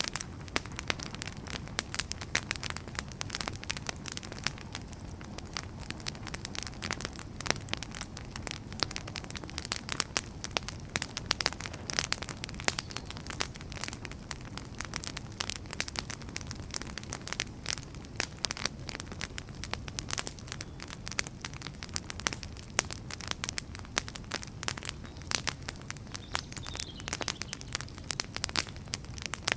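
Firewood burning, crackling: a dense, irregular run of sharp snaps and pops over a steady low rumble.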